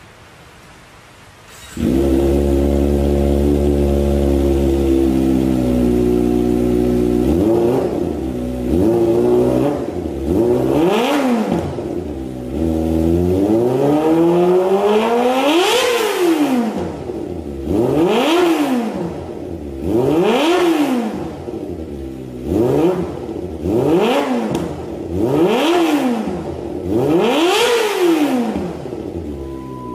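Kawasaki Ninja ZX250R engine through an aftermarket exhaust: it comes in about two seconds in, idles steadily, then is free-revved in a series of about ten quick throttle blips, each rising and falling back, with one longer rev near the middle.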